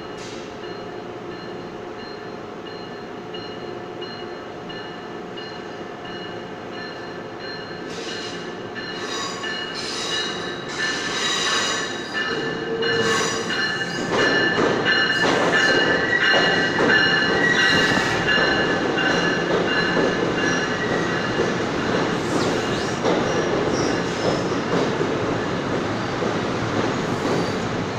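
NJ Transit bilevel commuter train pulling into an underground station, heard over a steady station hum. About 8 seconds in come high wheel squeals and a growing rumble, loudest once the cars are passing, from about halfway on, with more squealing a little after that.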